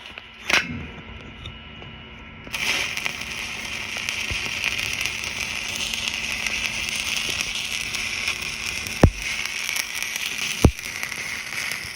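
Stick (SMAW) welding arc running a hot pass over a root pass. The arc strikes suddenly about two and a half seconds in and crackles steadily, with two sharp pops near the end.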